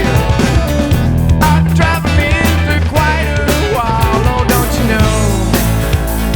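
Rock song with guitar, bass, drums and singing. The band gets fuller and brighter about two-thirds of the way in.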